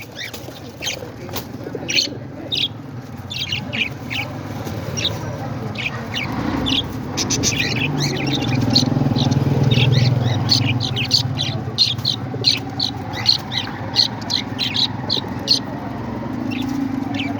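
Pet parrots giving many short, sharp chirps and squawks in quick succession, over a low steady hum that swells in the middle.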